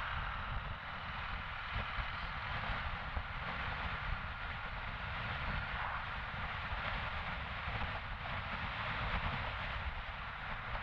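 Steady wind rush with engine and road noise from a motorcycle being ridden along at a constant pace, picked up by a camera on the moving bike.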